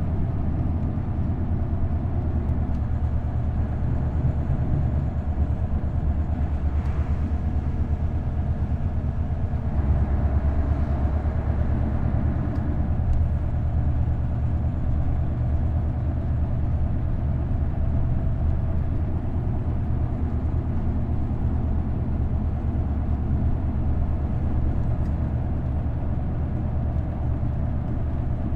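Isuzu Erga city bus's V8 diesel engine, with its five-speed manual gearbox, running under way as a steady low drone; the drone gets a little louder about ten seconds in.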